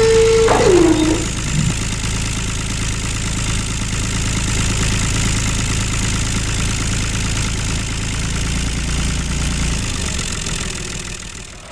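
Small motor of a miniature model tractor running steadily, with a brief high whine that falls sharply in pitch about half a second in; the running sound fades away near the end.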